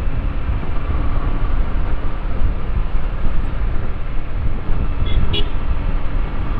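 Riding a motorcycle on a highway: steady engine and road rumble with wind noise on the microphone. A short high beep, like a horn, sounds about five seconds in.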